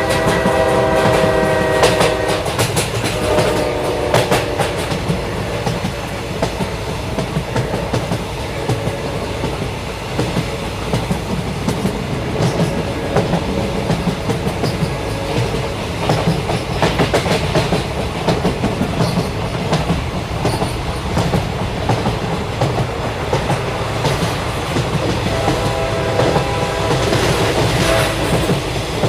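A train passing close by, its wheels clattering over the rail joints in a steady rumble. The horn sounds as a chord at the start, stopping about two seconds in, and sounds again near the end.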